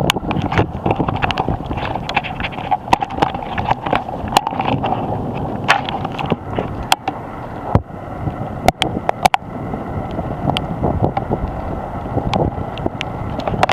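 Storm wind buffeting the microphone, with many sharp knocks and cracks scattered through it.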